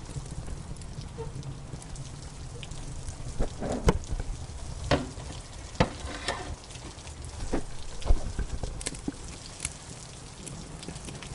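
Wood fire in a fireplace crackling, with irregular sharp pops, a few of them louder, over a steady low rumble and the hiss of rain.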